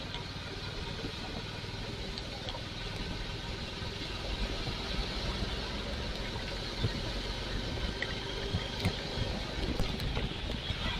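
Royal Enfield Classic 350's single-cylinder engine running steadily under a broad hiss, which grows a little louder about four seconds in, with scattered sharp clicks near the end.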